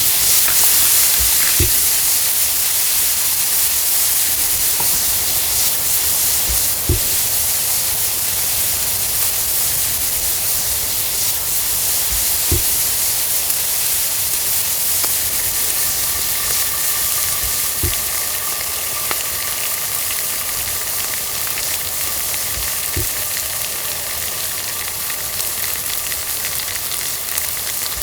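Food sizzling steadily in a hot frying pan, easing slightly over time, with a faint low knock every five or six seconds. Faint steady whistle-like tones join in about halfway through.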